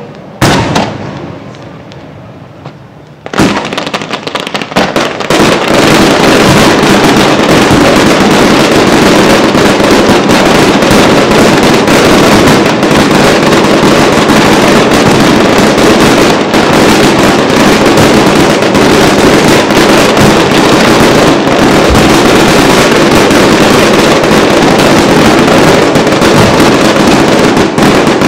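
Fireworks display: a couple of separate bangs, then from about five seconds in a dense, unbroken barrage of rapid bangs and crackling that keeps going, very loud.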